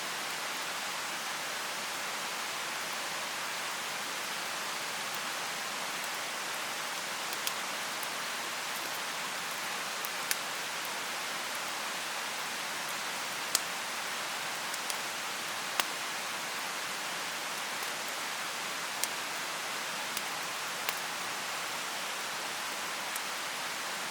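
Mountain stream rushing with a steady hiss, with a few sharp crackling pops from a bonfire, mostly in the second half.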